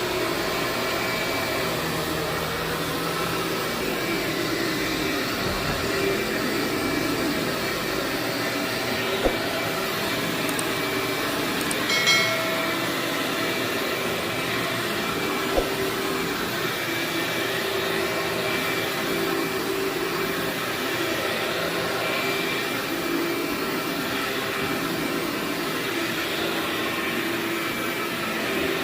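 Vacuum cleaner running steadily over carpet, with a few brief sharp clicks about a third and halfway through.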